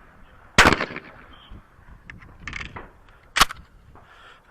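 Two shotgun shots at a trap range, about three seconds apart. The first, about half a second in, is the louder and has a short echoing tail; the second is a sharp crack near the end.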